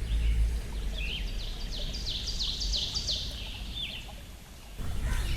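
Birds calling outdoors: a rapid run of short, high, falling notes, with a few separate curved calls, over a steady low background rumble.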